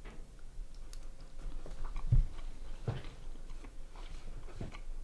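A person chewing a mouthful of food, with small clicks throughout and a few soft, low knocks about two, three and four and a half seconds in; the one at about two seconds is the loudest.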